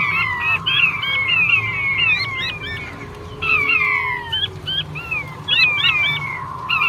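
Male king quail calling: rapid runs of short, high, downward-sliding whistled notes, several overlapping. The calling eases briefly about three seconds in and again near the end.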